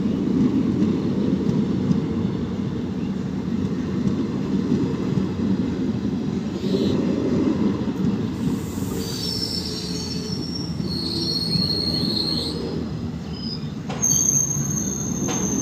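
Indian Railways passenger coaches rolling past on the rails with a steady rumble. From about halfway in come high thin wheel squeals, and near the end a sudden louder jolt and a strong squeal.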